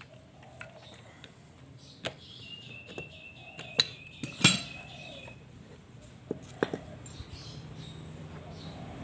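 Scattered clinks and knocks of hard objects being handled, the loudest about four and a half seconds in, with a thin high tone held for a couple of seconds in the middle.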